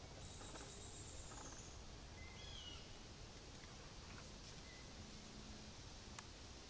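Quiet outdoor background with a few faint, high bird chirps near the middle and a thin high whistle in the first couple of seconds, plus a few light ticks.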